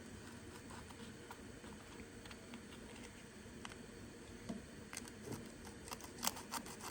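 Faint hand sanding with 150-grit abrasive in the worn seal groove of an outboard propeller shaft: soft scratchy rubbing with scattered small clicks and rustles, which come more often in the last two seconds.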